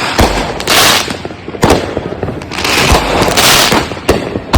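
Consumer aerial firework cakes firing: a sharp boom about once a second, mixed with longer bursts of crackling and hissing from the shells breaking overhead.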